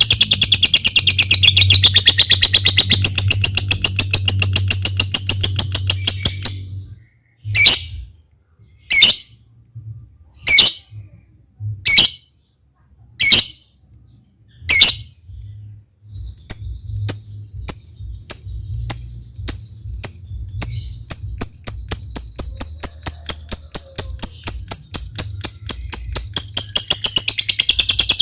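Lovebird calling: a fast, long chattering trill (ngekek) for about six seconds, then six single sharp calls about a second and a half apart, then a run of quick ticking notes (ngetik) that speeds up into another long trill near the end.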